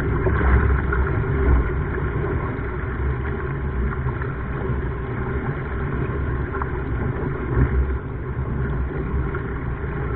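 Steady, gusting rumble of wind and sea water on a camera microphone on a surfski at sea.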